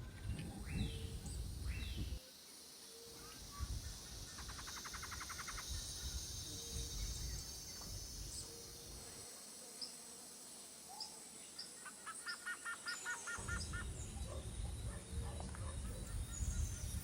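Outdoor ambience with small birds chirping: a quick trill about five seconds in and a run of short repeated chirps in the second half, over a low background hiss.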